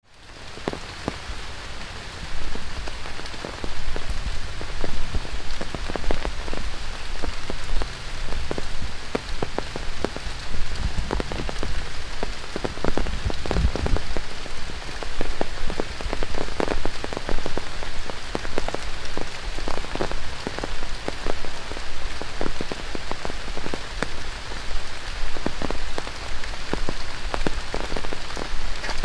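Heavy tropical rain falling steadily on rainforest foliage, a dense hiss with many sharp drops striking leaves close by. It fades in over the first few seconds.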